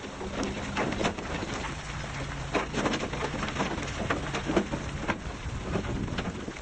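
A heavy earthmoving machine's diesel engine running steadily, with irregular crunches and knocks over it, several a second.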